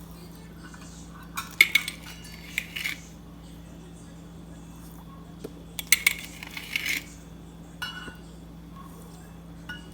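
A metal spoon clinking and scraping against a dish as white sugar is spooned in by the tablespoon for a pickling brine. There are two strong clusters of clinks, about a second and a half in and again about six seconds in, with lighter clinks near eight seconds and at the end, over a steady low hum.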